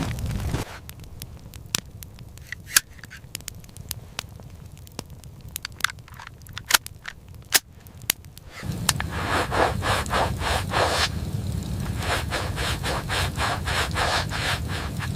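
Sparse crackling and scraping clicks over a quiet background. About eight and a half seconds in, a louder steady rushing noise starts, with rapid, rhythmic crunching over it.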